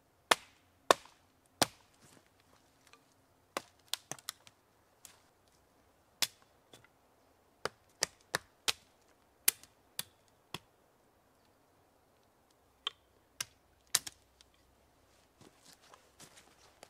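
Wood being chopped or split: about twenty sharp, short knocks at irregular spacing, the loudest two in the first second, with a pause of about two seconds past the middle.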